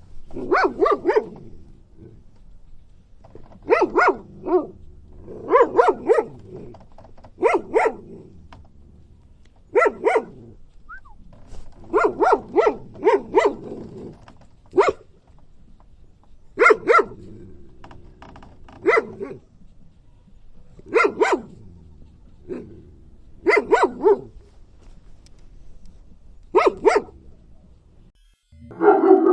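A dog barking in short runs of two to four barks, a run about every two seconds, over a faint low background hum.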